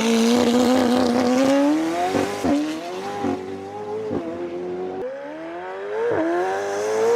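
McLaren Senna's twin-turbocharged 4.0-litre V8 accelerating hard through the gears. The engine note climbs and drops sharply at each of about five quick upshifts, then rises again near the end.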